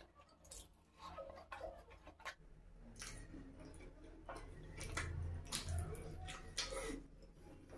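Close-miked wet mouth sounds of eating puri and boiled egg soaked in curry: sharp lip smacks and clicks with chewing. A low hum swells in partway through, strongest about five seconds in.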